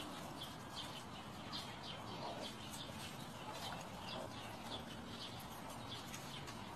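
Small birds chirping faintly, short high calls repeated at uneven intervals over a steady outdoor hiss.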